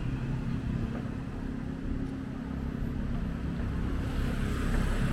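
Street traffic: a motor vehicle engine running with a steady low hum, growing louder near the end.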